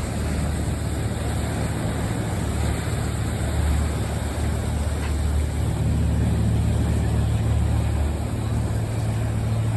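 Motorboat engines running steadily in the inlet, a deep low rumble with a broad wash of water and wind noise over it, a little louder from about six seconds in.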